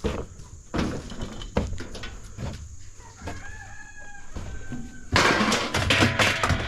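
Scrap metal being handled: a few sharp metal knocks in the first two seconds, then a loud, harsh sound lasting about a second and a half near the end.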